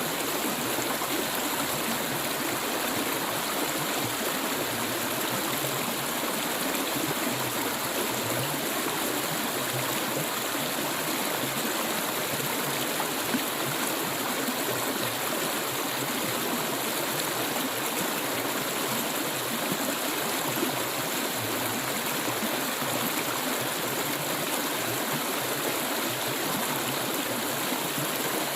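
A stream of clear water flowing and babbling steadily over stones.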